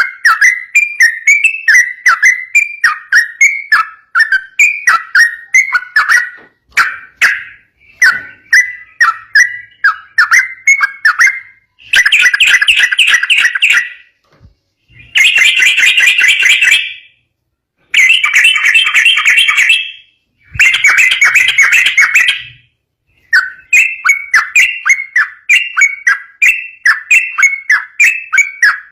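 Yellow-vented bulbul (trucukan) singing a long rapid-fire song of short whistled notes, several a second. In the middle come four dense, harsher chattering phrases about two seconds each, split by brief silences, before the quick whistled notes resume.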